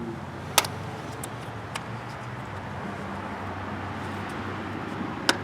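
Two short, sharp clicks, one about half a second in and one near the end, over a steady low rumble.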